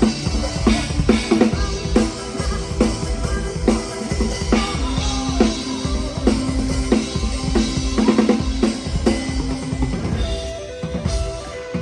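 A PDP drum kit played live with a band, kick and snare hits keeping a steady beat over sustained bass and keyboard notes. The sound is recorded on a phone. About ten seconds in, the drums thin out while a held note carries on.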